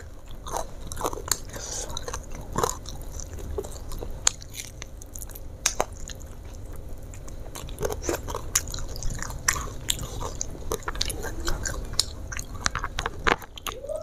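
A person chewing food, with frequent irregular crunches and sharp wet mouth clicks.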